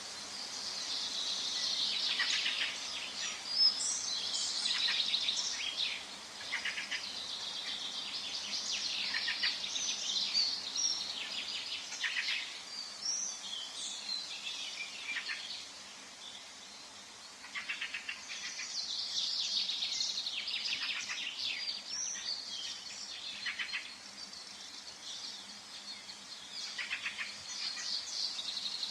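Several small birds singing and chirping over a faint steady background hum, in overlapping bursts of quick high chirps and trills, with a lull around a third of the way through and again near the middle.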